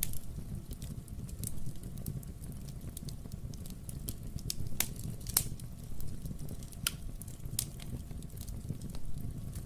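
Wood-burning fireplace crackling. Irregular sharp pops and snaps of burning logs sit over a steady low rumble of the fire, with a few louder pops a little past the middle.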